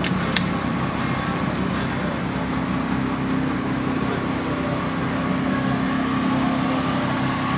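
A car engine running steadily, with a short click less than a second in.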